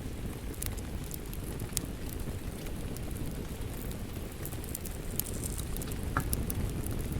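Wood fire crackling in a fireplace: a steady low rumble of the flames with scattered sharp pops and snaps.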